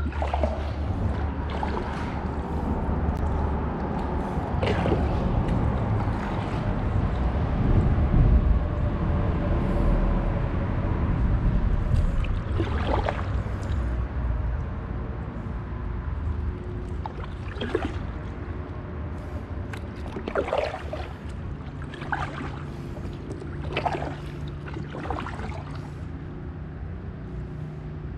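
Kayak paddling: the paddle blades dip and splash in the water every few seconds over a steady low rumble.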